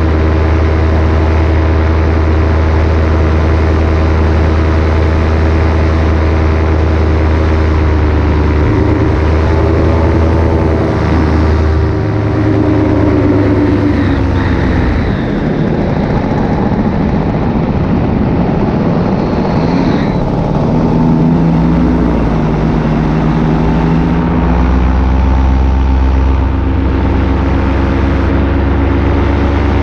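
Paramotor engine and propeller running in flight. The steady note dips and blurs for several seconds about halfway through as the throttle changes, then climbs back to a steady drone.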